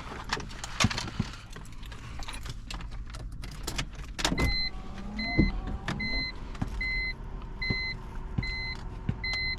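Scattered clicks and light rattling, then a loud click about four seconds in. After it comes a short electronic beep repeating steadily, about one and a half times a second, as the BMW M3 E46's electrics are switched on after the head-unit wiring.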